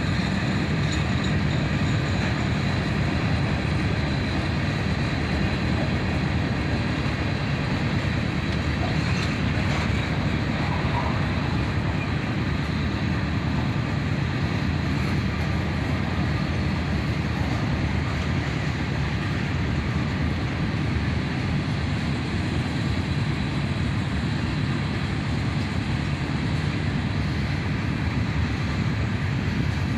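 Freight cars of a long manifest train rolling past, a steady noise of steel wheels on rail with no locomotive engine prominent.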